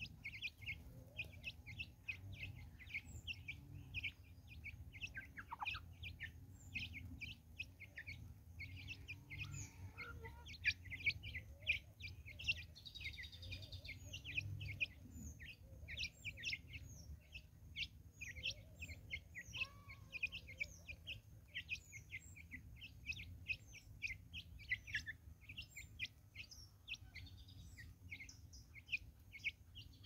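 Birds chirping in a fast, dense run of short high chirps, with one longer, brighter call about halfway through, over a steady low rumble.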